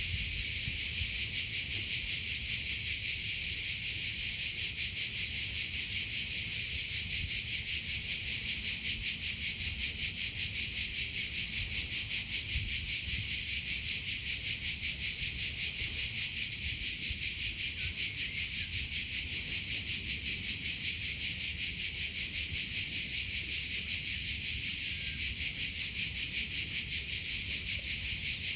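Crickets chirping in a steady high-pitched trill of rapid, even pulses that never stops.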